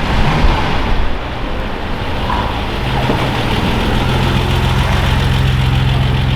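Car engine running. About three seconds in it settles into a steady idle with an even low hum.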